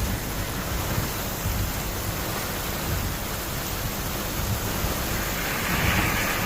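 Heavy rain pouring steadily, a dense even hiss with an uneven low rumble underneath.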